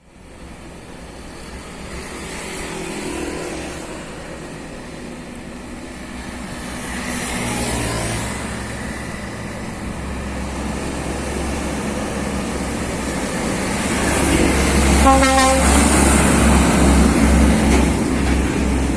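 A heavy diesel truck drawing near and passing, its engine growing louder over the last several seconds, with one short horn blast about fifteen seconds in.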